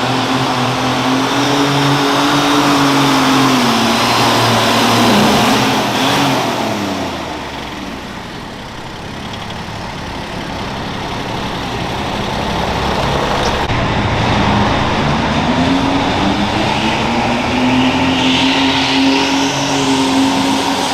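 Garden tractor engine running hard under a pull. Its pitch and loudness sag and fall away about seven seconds in, then climb back up and hold steady.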